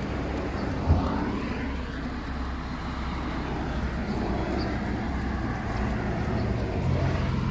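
Toyota Mark II (X90) driving, heard from inside the cabin: a steady engine and road rumble, with a single sharp thump about a second in.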